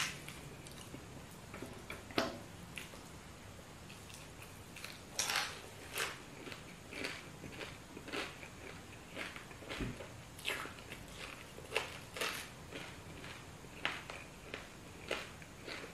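Mouth sounds of a person eating fried fish with his fingers: chewing and lip-smacking heard as irregular short clicks, about one or two a second.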